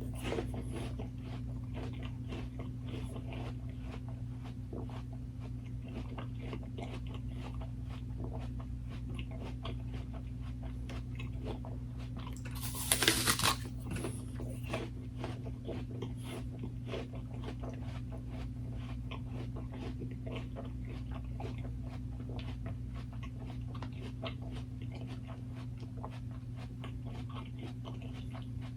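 Close-miked chewing and biting of food, with wet crunching throughout and one louder bite or crunch about thirteen seconds in, over a steady low electrical hum.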